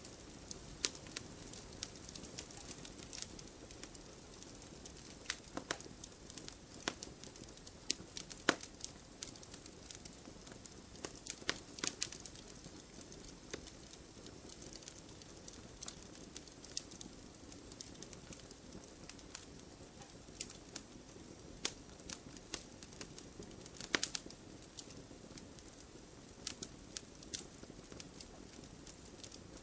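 Wood campfire crackling: irregular sharp pops and snaps over a low steady hiss, with a few louder pops scattered through.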